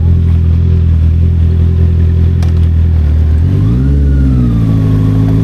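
Honda CB650R inline-four engine with an SC Project exhaust, running steadily while riding, then rising in pitch about three and a half seconds in as the throttle opens, easing a little and holding, and dropping sharply at the very end.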